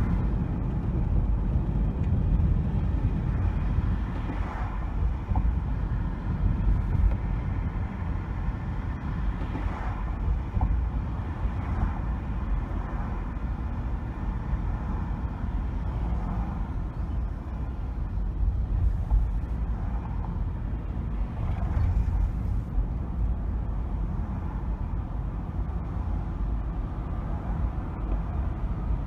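Car driving on city streets: a steady low rumble of road and engine noise, with brief faint swells of higher sound every few seconds.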